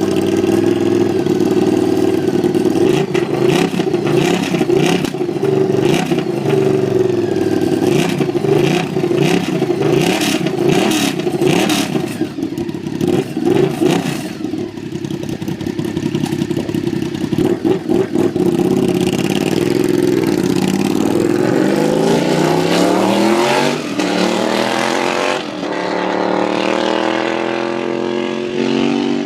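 Honda RC51's 90-degree V-twin running open with no mufflers. It is blipped repeatedly with sharp crackles, then revved up in two long rising sweeps near the end.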